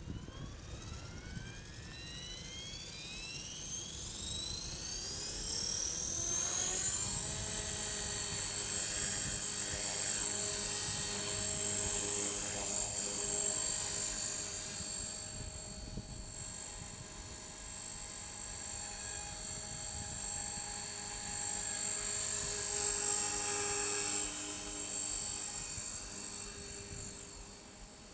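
T-Rex 450 Pro DFC electric RC helicopter spooling up: the high whine of its brushless motor and rotor gearing rises steadily for about seven seconds, then holds at flying speed while the loudness swells and fades as the helicopter moves. Wind rumbles on the microphone underneath.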